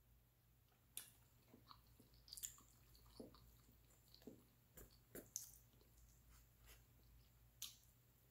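Faint chewing and small mouth sounds from a mouthful of rice, with a few soft scattered clicks; near the end a metal fork scrapes in a foam takeout container.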